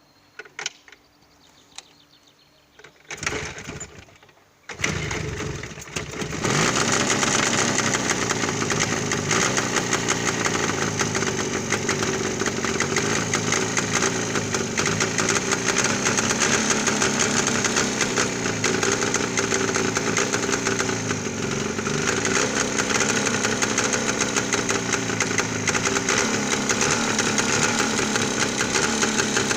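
Jawa 638 two-stroke twin motorcycle engine starting about five seconds in after a few clicks and rustles, then running steadily.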